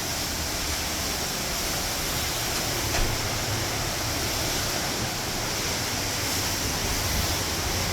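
Hurricane wind and heavy rain making a steady rushing noise, with one small knock about three seconds in.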